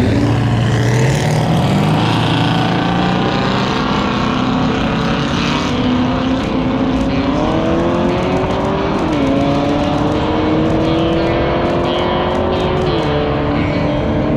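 Car engine at full throttle on a drag run, its pitch climbing steadily and dropping sharply at upshifts about nine and thirteen seconds in.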